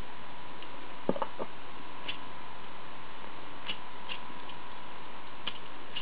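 Metal pieces of a Hanayama EQUA cast puzzle clicking against each other as it is handled: a few sharper clicks about a second in, then light scattered ticks.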